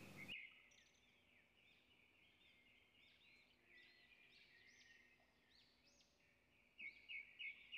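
Near silence with faint, high bird chirps going on throughout, a few slightly louder near the end.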